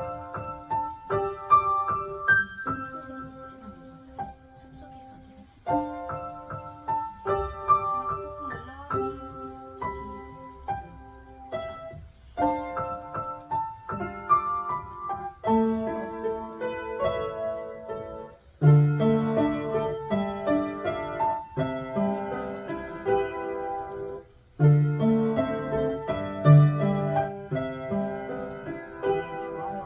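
Solo piano playing a slow new-age piece in phrases, each separated by a short break; about two thirds of the way in the bass notes come in fuller and louder.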